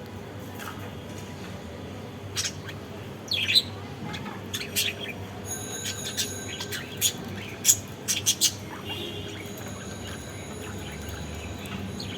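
Budgerigars giving short, sharp chirps, scattered irregularly about a second apart.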